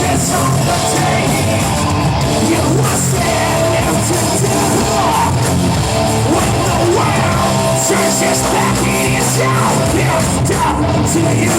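Live heavy metal band playing loud, with a singer yelling and singing over the music.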